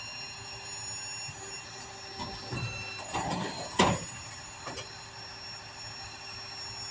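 Tow truck running steadily during a vehicle recovery, with a few short clanks in the middle and one sharp metallic knock about four seconds in.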